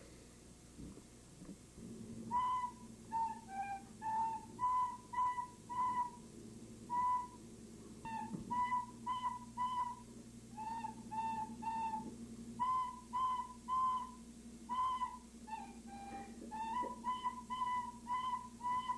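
A recorder played as a simple tune of short, separate notes, starting about two seconds in, moving among a few nearby pitches. A faint steady low hum runs underneath.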